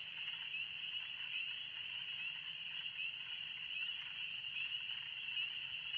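Loud chorus of spring peepers: many short, rising peeps overlapping into a steady high-pitched din.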